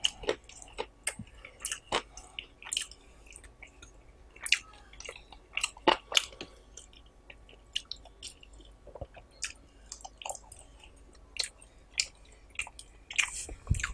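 Close-up chewing and mouth sounds of someone eating curry with rice: irregular wet clicks and smacks.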